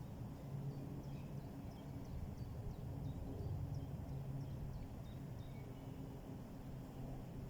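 A low, steady engine hum from a distant motor, with faint, short, high bird chirps repeating a couple of times a second above it.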